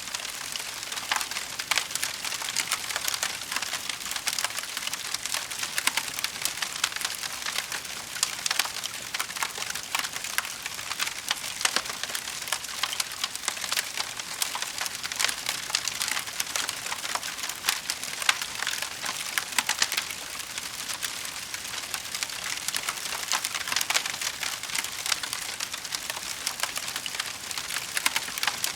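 Wood fire in a fireplace crackling steadily, with a dense hiss of tiny crackles and frequent sharp pops and snaps.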